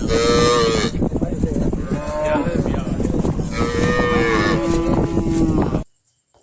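Cattle mooing several times, the last call long and held at a lower pitch, over loud steady noise. Everything cuts off suddenly near the end.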